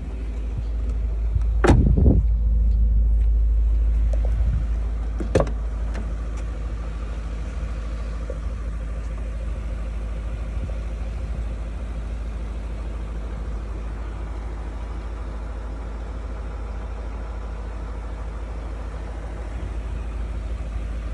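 BMW E39 M5's 4.9-litre V8 idling with a steady low rumble, with two short knocks about two and five seconds in, the first the loudest sound.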